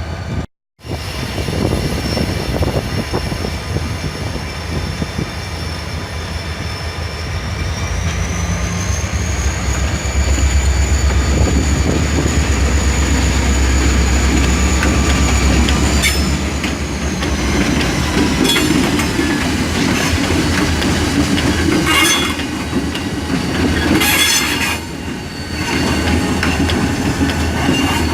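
Goderich-Exeter Railway freight train rolling by, its wheels squealing with a thin high tone that rises and then falls through the middle. Sharp clanks and rail-joint clacks follow in the later part.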